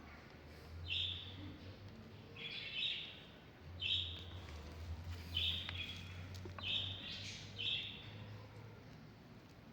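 A small bird chirping repeatedly, short high calls about once a second, over a faint low hum.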